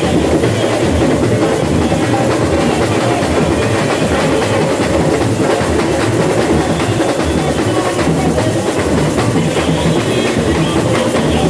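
Samba school bateria playing a loud, steady samba groove: massed drums with a repeating low bass beat under dense, busy percussion.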